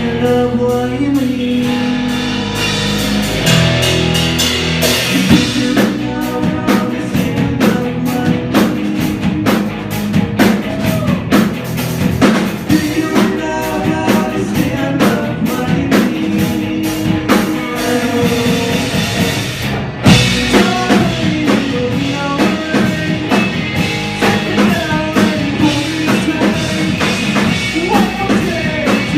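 Live rock band playing: drum kit, electric guitar and bass with a singer, heard as a room recording of the full band. The playing drops out for a moment about two-thirds of the way through, then comes straight back in.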